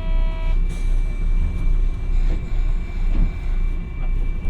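Hiroden 700 series tram running, heard from on board: a steady low rumble of the wheels on the rails and the traction motors. A short pitched tone stops about half a second in, followed by a faint clack.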